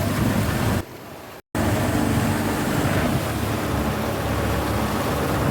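Engine of a motorized outrigger boat (bangka) running steadily under way, with wind and water rush. The sound cuts out abruptly for a moment about a second in, then comes straight back.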